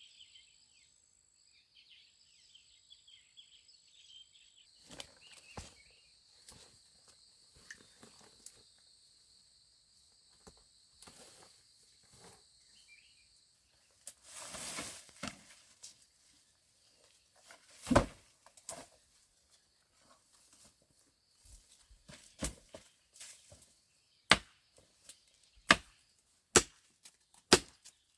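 Insects, crickets, chirping steadily in the first half. Then sharp wooden knocks of wood being chopped: a single loud strike about two-thirds of the way in, then a run of strikes about once a second near the end.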